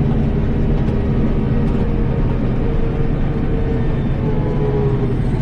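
Tractor engine running steadily while plowing snow, a constant drone whose pitch sags slightly about four seconds in.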